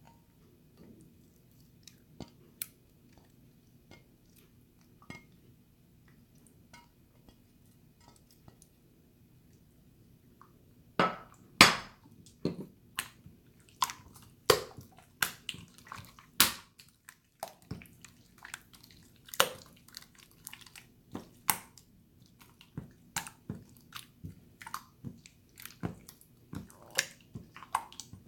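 Water slime being handled: quiet for the first ten seconds or so apart from a few faint ticks, then sharp, irregular wet clicks and squelches about once or twice a second.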